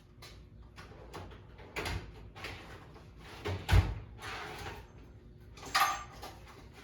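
Parts and tools being handled during a repair: a run of clicks, scrapes and knocks, the loudest a thump about four seconds in.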